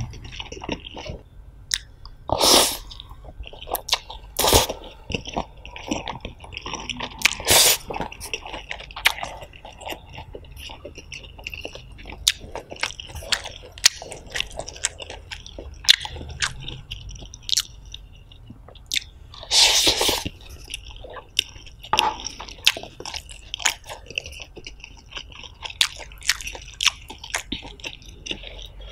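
Close-miked chewing of a mouthful of fried noodles, with wet mouth smacks and small clicks throughout and a few louder bursts now and then.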